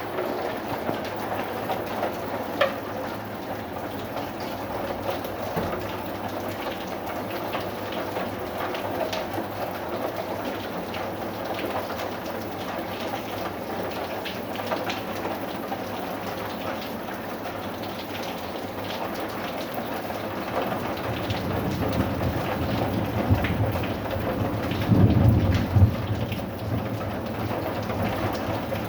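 Steady rain falling, with scattered drop impacts. A low rumble of thunder builds about two-thirds of the way in and peaks near the end before easing off.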